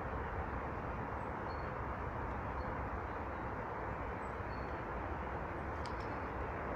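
Steady outdoor rushing background noise, with a few faint, brief high chirps from small birds at the feeders.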